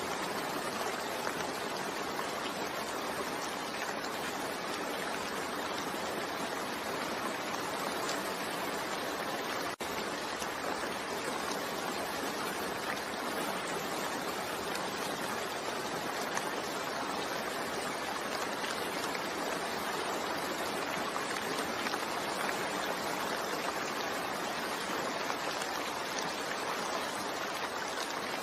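Steady rain falling, a dense even hiss of drops, with a momentary drop-out about ten seconds in.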